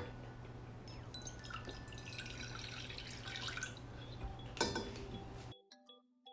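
A cup of water being poured into a pot, with trickling and small drips over a steady low hum, and a sharp knock about four and a half seconds in. Near the end it cuts to light glockenspiel-like background music.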